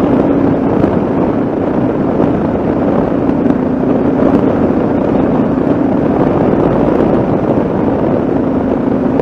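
Yamaha XT660Z Ténéré's single-cylinder engine running at a steady road speed, with wind rushing over the microphone.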